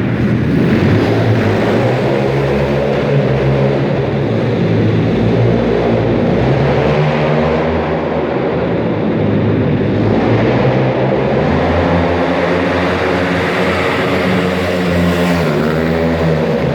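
Pit bike engine running hard, its pitch rising and falling over and over as the throttle is opened and closed.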